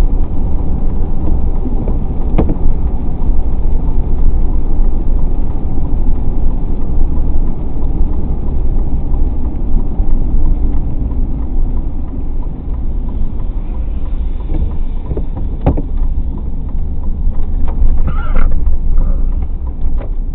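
A car driving: a steady low rumble of road and engine noise, with a sharp click twice and a short higher-pitched squeak near the end.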